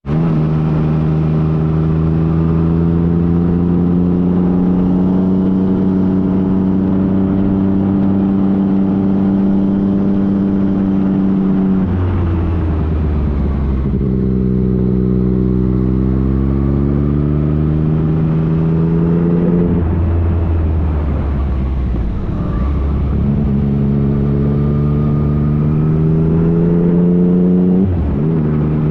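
Engine of a 2015 Yamaha FJ-09, an 847 cc inline three-cylinder, running under way and pulling steadily. Its pitch climbs slowly between sharp drops at gear changes, most clearly about twelve and twenty seconds in, with shorter dips later.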